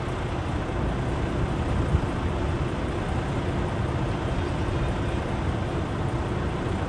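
Steady low rumble of an idling vehicle engine, with one short click about two seconds in.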